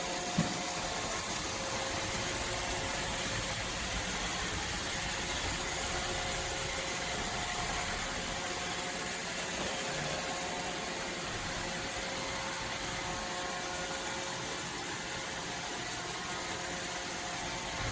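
iRobot Roomba robot vacuum running, a steady whirring hum of its suction motor and brushes with a faint held tone.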